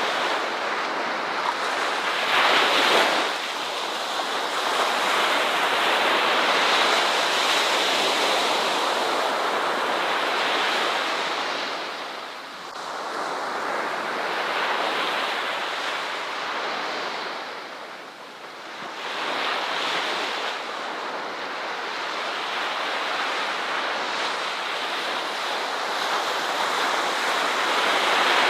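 Ocean surf: waves breaking and washing up the shore in slow swells, easing into lulls about twelve and eighteen seconds in before building again.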